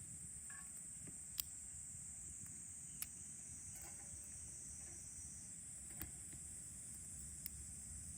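Steady high-pitched chorus of insects, typical of a hot summer evening outdoors, with four sharp clicks spaced a second or more apart.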